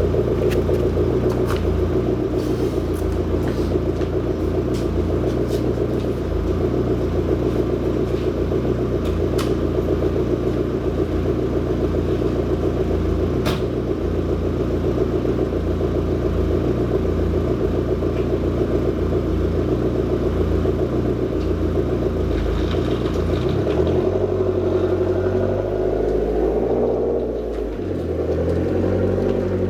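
Lancia Delta Integrale 16v's turbocharged four-cylinder engine running steadily through a scara73 stainless-steel exhaust, a deep even rumble. In the last few seconds the engine note shifts up and down, and a few sharp clicks are heard earlier on.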